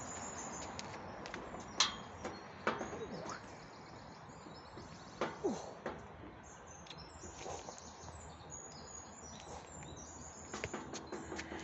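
Birds chirping in short high calls, with a few sharp knocks about two and five seconds in.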